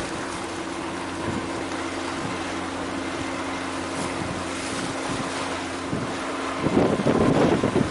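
A boat's engine drones steadily and low under a hiss of wind. Wind buffets the microphone in gusts near the end.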